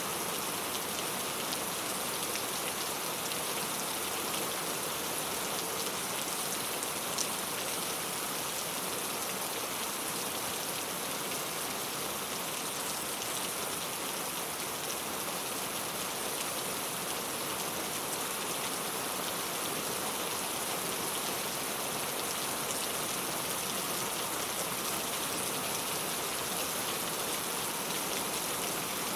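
Steady rain falling on a clay-tile roof, an even patter of drops, with one sharper drip about seven seconds in.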